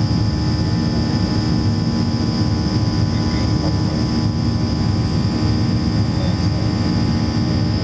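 Boeing 737-700's CFM56-7B turbofan engines and rushing air heard inside the cabin, a steady loud drone with a constant high whine above it.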